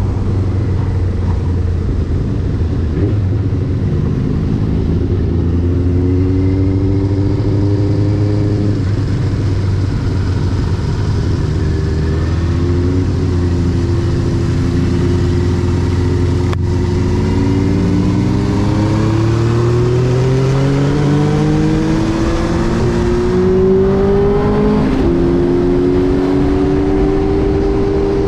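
Benelli TNT 600i's inline-four engine running on the move: a steady low note for the first several seconds, then a pitch that climbs as the bike accelerates, with a short dip near the end before it settles at a higher note.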